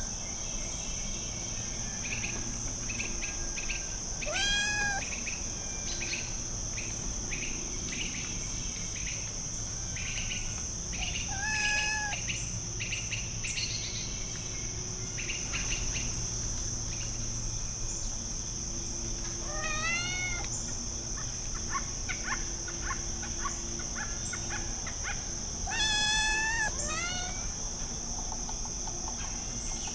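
A steady high-pitched insect chorus, like crickets, with a kitten mewing four times, each mew short and arched in pitch. Faint short chirps come in between.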